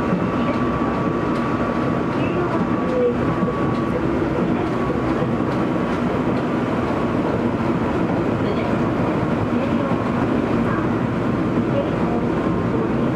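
Keio 8000 series electric train running steadily, heard from inside the passenger car: a continuous rumble of wheels on rail.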